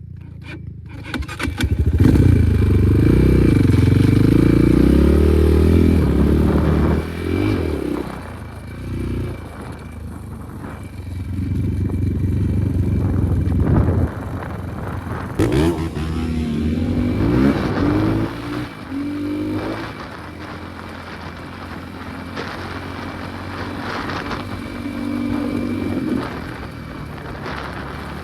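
Enduro motorcycle engine being ridden, the revs rising and falling with the throttle; it is loudest a few seconds in.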